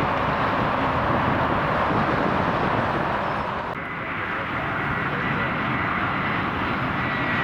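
Jet airliner engines running with a steady loud rush. About halfway through the sound changes abruptly and a thin high engine whine comes in, falling slightly.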